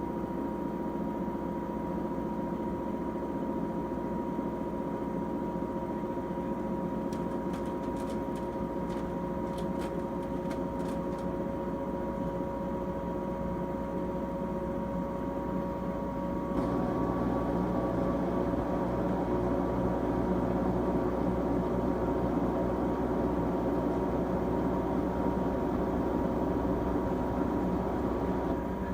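13-year-old LG Tromm WD-CR101C front-loading washing machine running through its quick-wash cycle: a steady machine hum with several held tones. About halfway through it gets louder, with more low rumble.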